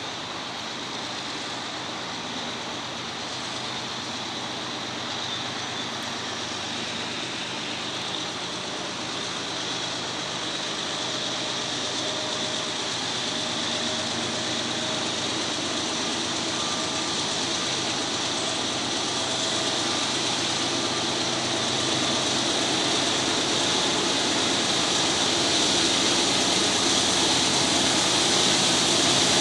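Diesel freight train approaching, led by GE diesel-electric locomotives: a steady engine drone over a broad hiss, growing gradually louder.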